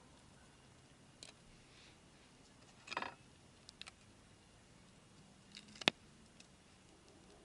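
Wood campfire crackling faintly: a few scattered pops and crackles over a quiet background, the sharpest pop about six seconds in.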